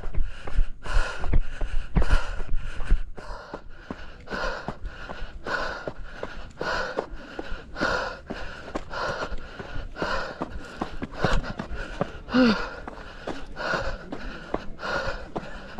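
A trail runner's hard, rapid breathing while running uphill, about two heavy breaths a second, steady and rhythmic. Low thumps sit under the breathing for the first three seconds, and a brief voiced grunt comes about twelve seconds in.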